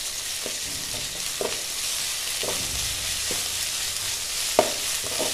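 Onions, green chillies and ginger-garlic paste sizzling in oil in a metal kadai while a spatula stirs them, scraping the pan about once a second, with one sharper knock near the end. This is the stage of frying the ginger-garlic paste until its raw smell goes.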